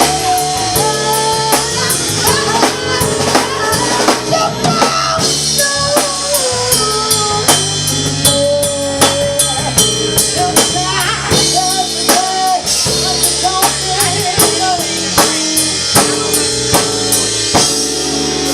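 Live band music: a drum kit keeping a steady beat with snare and bass drum, under a bass line and a wandering melody line.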